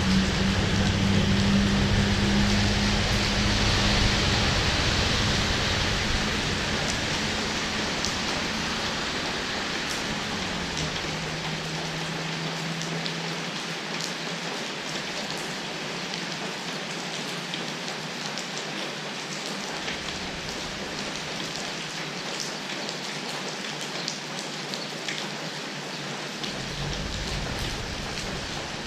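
Rain falling steadily, with individual drops ticking. A low vehicle engine hum fades away in the first several seconds.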